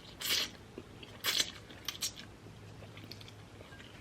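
Close-up eating sounds from spicy instant noodles: chewing and mouth clicks, with two short loud noisy bursts, one just after the start and one just over a second in.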